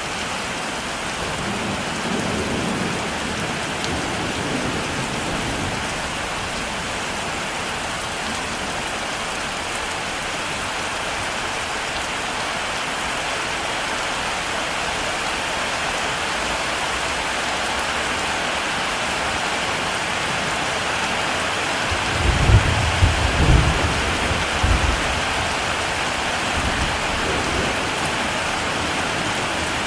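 Heavy rain falling steadily as a dense hiss. A faint low rumble of thunder comes a couple of seconds in, and a louder, deeper thunder rumble of several rolls about 22 seconds in lasts roughly three seconds.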